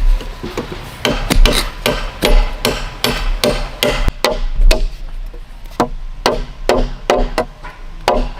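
Repeated blows of a hand tool in a steady rhythm, about three strikes a second.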